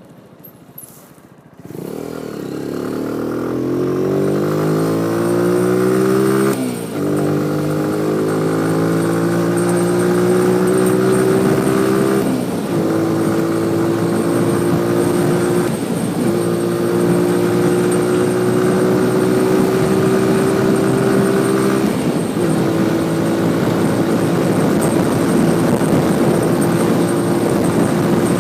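Motorcycle engine pulling away about two seconds in and accelerating up through the gears, its pitch climbing and dropping back at each of four upshifts, then running fairly steadily at cruising speed.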